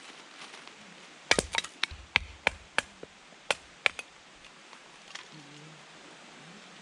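A quick series of about ten sharp knocks or strikes, beginning about a second in and stopping around four seconds, like repeated blows of a tool.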